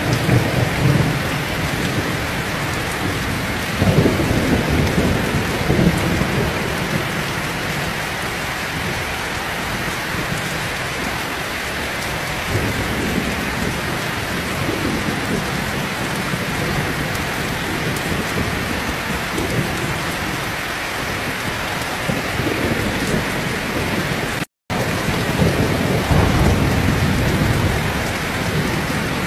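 Heavy rain falling steadily, with low rolling thunder swelling at the start, about four and six seconds in, and again near the end. The sound cuts out for an instant just before that last rumble.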